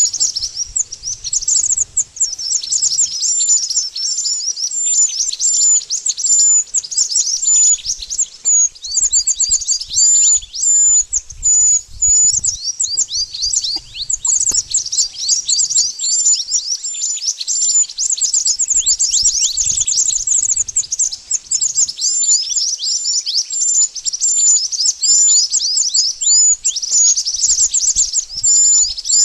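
Mantenan birds calling without a break: a dense stream of rapid, high-pitched chirps, many of them quick falling sweeps, mixed with a short hooked note repeated over and over.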